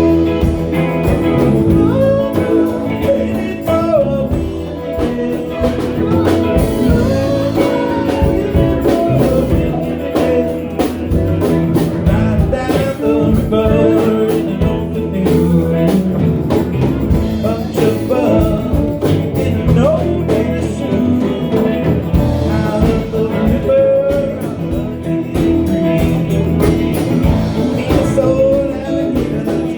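A band playing a blues-rock song live, with a sung vocal over guitar, bass and drums.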